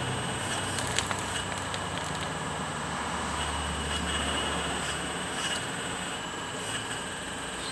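Radio-controlled model construction machinery running, with a steady electric motor whine and a low hum that shifts pitch about halfway through. A few sharp clicks sound over it, the loudest about a second in.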